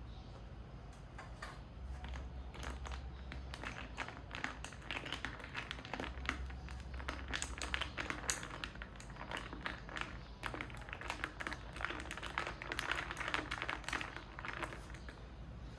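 A dense, irregular run of small taps, clicks and light crinkles from handling things by hand, busiest in the middle and tailing off near the end.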